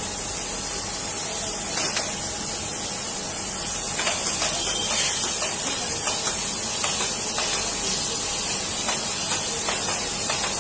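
Steady high-pitched hiss, with scattered light clicks and taps from about four seconds in.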